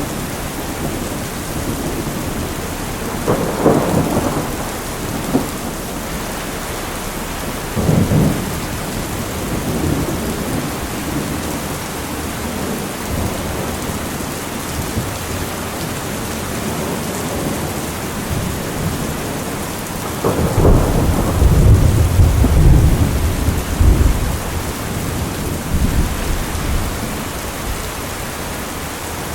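Steady rain with thunder rolling through it: short rumbles a few seconds in and again about eight seconds in, then a longer, louder rumble about two-thirds of the way through that fades away.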